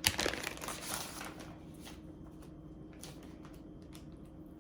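Plastic deli-meat packaging crinkling and rustling for about a second and a half as turkey ham is handled, then only a few faint light clicks.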